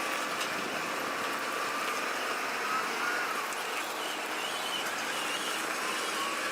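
A vehicle engine running steadily under a constant noise, with a faint whine that drifts slightly in pitch.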